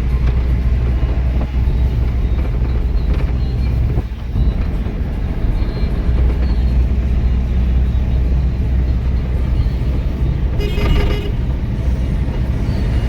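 Steady low rumble of a truck driving on the highway, engine and road noise. A vehicle horn sounds once, briefly, about ten and a half seconds in.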